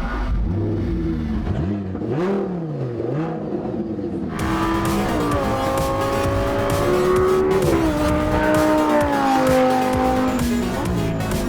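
High-performance sports car engine on a race track. Its pitch sweeps up and down for the first few seconds, then it gets louder from about four seconds in, with the pitch falling steadily and jumping sharply back up a couple of times. Music plays underneath.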